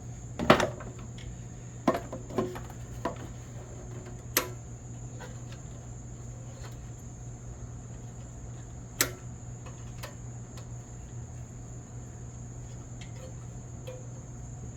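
A handful of sharp clicks and knocks from hard objects being handled and set down, over a steady low hum. The loudest comes about half a second in, several follow over the next four seconds, and a last one comes about nine seconds in.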